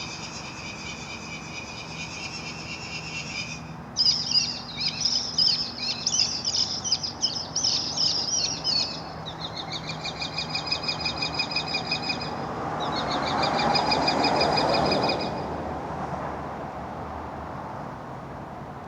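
High-pitched chattering calls, rapid and pulsing, like a flock of birds calling together, loudest and densest from about four to nine seconds in. A vehicle passes about thirteen to fifteen seconds in.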